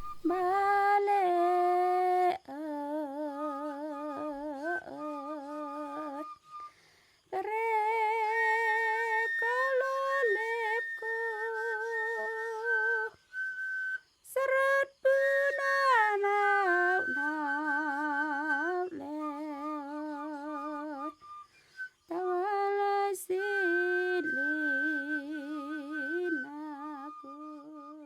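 Wordless humming of a slow melody of long held notes with a wavering vibrato, in phrases of a few seconds broken by short pauses.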